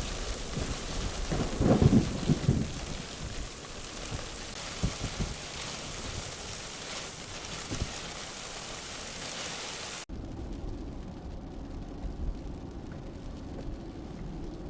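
Very heavy rain hissing, with a loud rumble of thunder about two seconds in. About ten seconds in, the sound cuts abruptly to a quieter, duller steady noise.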